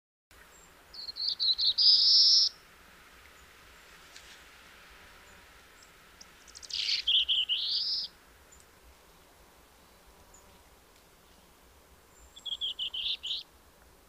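Black-throated blue warbler singing three songs a few seconds apart. Each song is a short run of rapid high notes that rises at the end.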